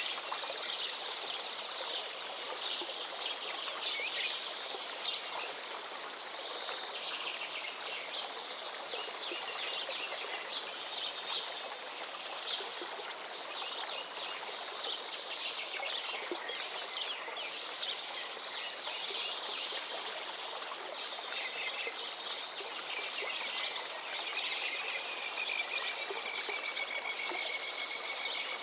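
River water flowing steadily, with many small birds chirping and calling over it. Near the end, a long whistled note holds and falls slightly.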